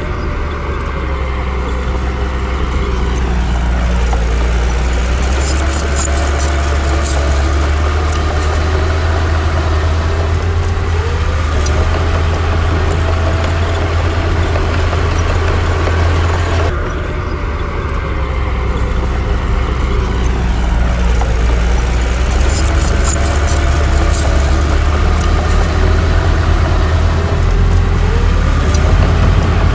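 Heavy earthmoving machine's diesel engine running, a deep steady rumble with tones sliding up and down as it works, and scattered metallic clicks. There is a sudden break about 17 seconds in, after which the same pattern starts over.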